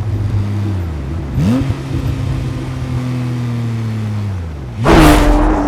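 Porsche 911 R's flat-six engine revving: the pitch climbs sharply about a second and a half in, holds, then drops away near the end. About five seconds in, a loud sudden hit with a long held tone comes in over it.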